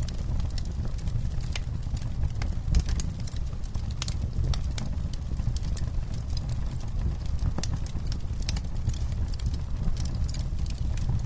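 Campfire crackling: irregular sharp pops and snaps of burning wood, some close together, over a steady low rumble.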